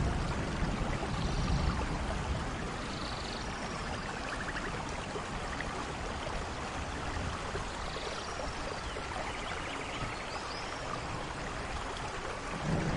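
Steady rain falling through forest, with a few short, high calls over it. A low thunder rumble fades out in the first couple of seconds, and another begins near the end.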